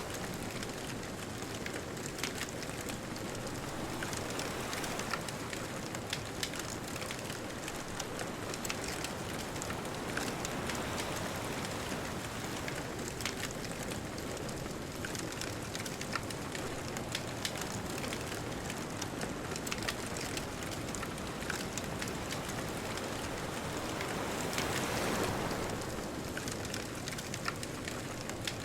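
Bonfire crackling with frequent sharp pops and snaps over a steady wash of distant ocean surf, with a wave swelling up near the end.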